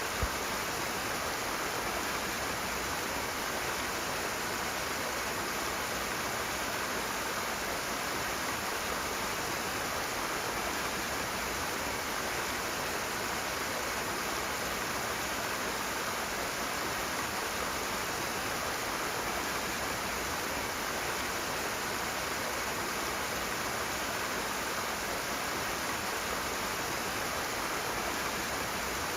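Rushing water, a fast-flowing stream, making a steady, unbroken rush.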